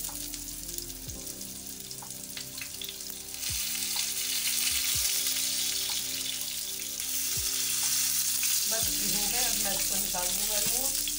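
Galawati kebabs (minced-meat patties) sizzling in hot oil in a non-stick pan, the sizzle growing louder about a third of the way in. A few light knocks come from a silicone spatula pressing the patties against the pan.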